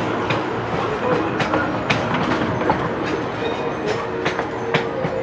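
Disneyland Railroad passenger coaches rolling past close by: the wheels clickety-clack over the rail joints, several sharp clicks a second over a steady rolling rumble. A steady tone joins about halfway through.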